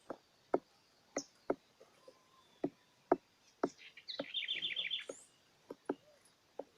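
A small bird giving a quick high trill of about eight chirps near the middle. Sharp irregular knocks or taps sound around it, roughly every half second.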